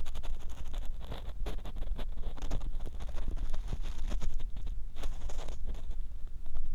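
Ear pick scraping and rubbing inside the ear of a 3Dio binaural microphone: dense, crackly scratching strokes over a low rumble.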